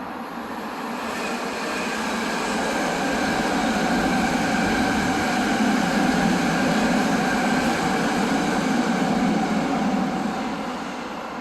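BART train passing: a steady rumble with a high steady whine. It grows louder toward the middle and fades near the end.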